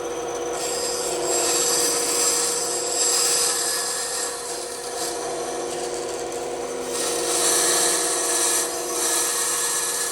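Bandsaw running steadily, its blade cutting through wood in two stretches with a rasping hiss, about half a second in and again about seven seconds in.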